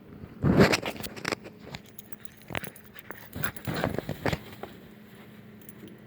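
A dog's collar tags jangling in several irregular short bursts, loudest about half a second in and dying away after about four seconds.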